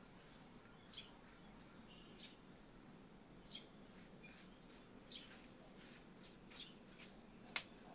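Faint bird chirps: short high chirps every second or so, with a sharp click near the end.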